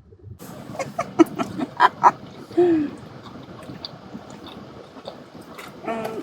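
Eating at a restaurant table: scattered light clicks and clatter over a steady room background, with a short, low, falling hum of a voice, like an 'mm', about two and a half seconds in.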